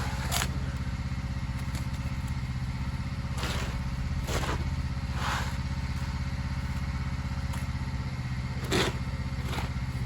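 Petrol engine running steadily at a constant speed, with about six short scrapes and knocks of a shovel scooping wet slop off block paving, the loudest near the end.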